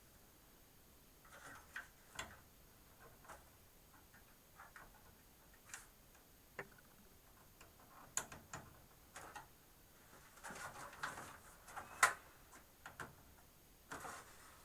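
Scattered light clicks and rustling of small plastic connectors and thin front-panel wires being handled and pushed onto motherboard header pins. The sharpest click comes near the end.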